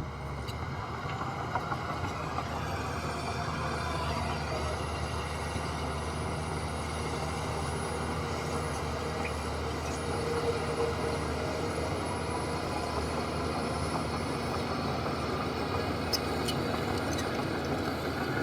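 Heavy diesel engine of earthmoving equipment running steadily, a low, even drone.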